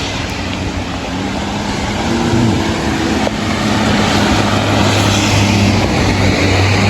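A vehicle engine running with a steady low hum over a constant hiss, growing gradually louder.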